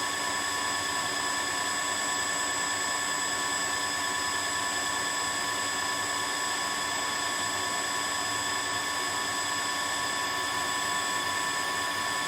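Tineco Floor One S5 cordless wet-dry vacuum's motor running steadily, a constant hiss of air with a high, unchanging whine.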